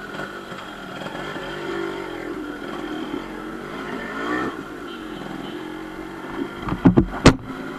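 A motor vehicle engine running, its pitch wavering up and down, with a cluster of sharp loud knocks or pops near the end.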